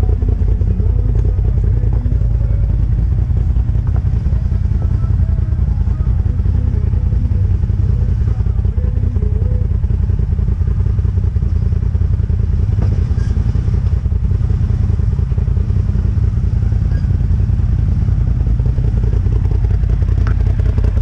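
Side-by-side UTV engine running steadily at low speed as it crawls over rocks, with a few faint knocks along the way.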